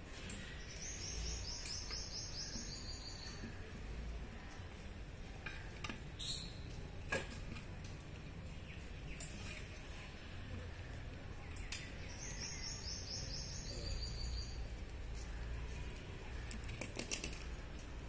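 A songbird singing twice, each phrase a rapid run of high notes lasting about two and a half seconds and dropping to a lower pitch at the end. A few sharp clicks and taps come in between, the loudest about six and seven seconds in.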